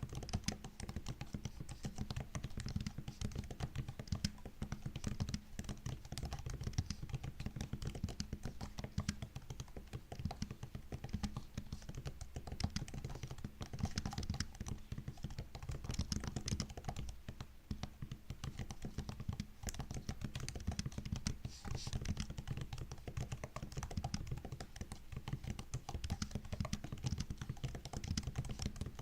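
Continuous typing on a MacBook laptop keyboard: a steady stream of soft key clicks and taps with brief pauses.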